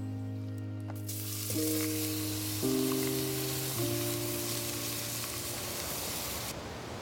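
Food sizzling as it fries, a steady hiss that starts about a second in and cuts off abruptly near the end, over background music with chords changing about once a second.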